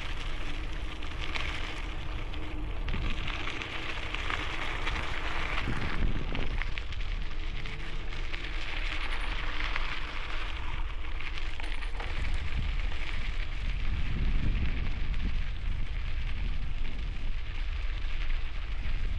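Wind rumbling on a helmet-mounted camera microphone during a bicycle ride, over a steady crackling hiss of tyres rolling on a rough, gravelly trail, with scattered small clicks.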